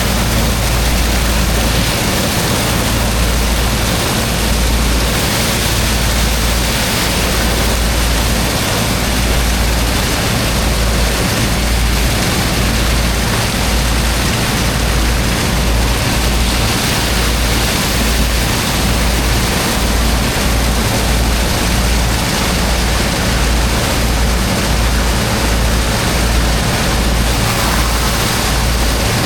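High-pressure water jet rushing steadily as it blasts into a pile of wet sand, over the low drone of the pump's engine and an uneven low rumble.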